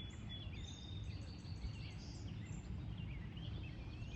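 Several small birds chirping and trilling, with a quick run of repeated high notes in the first half, over a steady low rumble.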